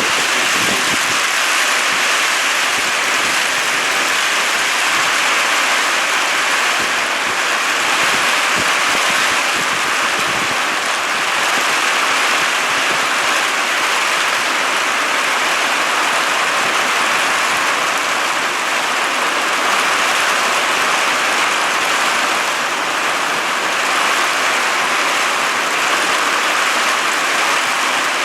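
Heavy rain falling steadily: a loud, even hiss with no letup.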